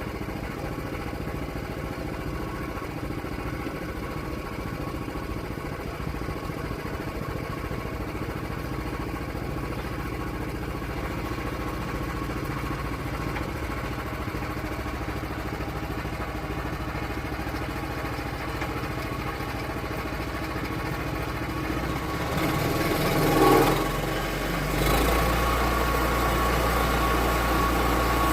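Portable sawmill's small gasoline engine running steadily. About 23 seconds in it swells to a brief loud peak, then settles into a louder, heavier running note.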